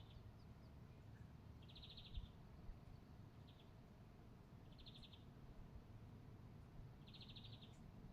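A bird repeating a short, rapid trill at one steady high pitch, four times, about every two to three seconds, faint over a low background rumble.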